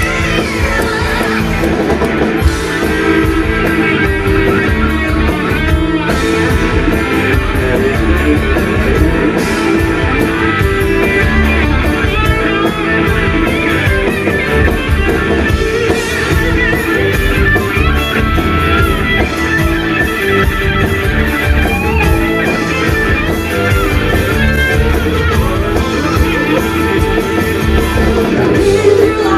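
Rock band playing live, an instrumental passage with electric guitar over bass and drum kit, loud and steady.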